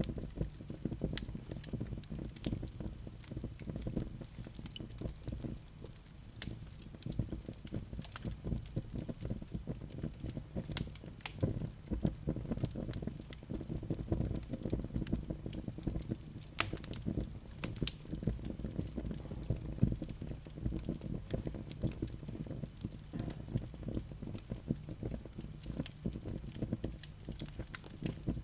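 Wood fire burning in a fireplace, crackling and popping irregularly over a low, steady rumble of flames.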